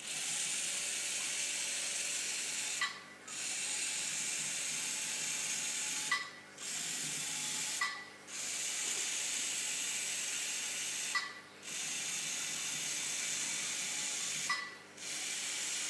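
Bee-Bot floor robot's small drive motors whirring as it carries out a programmed sequence of moves. The whirring stops briefly five times, with a short high beep at each stop between moves; the shorter run in the middle is its right turn.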